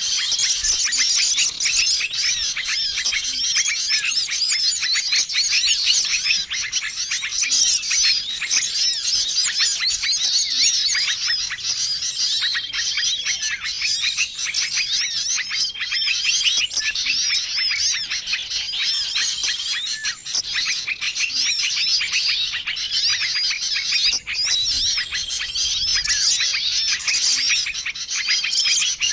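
Dense chorus of many small songbirds chirping and twittering at once, with no pause, and short steady whistled notes recurring every few seconds. It is a mixed small-bird lure call, played to draw wild small birds in.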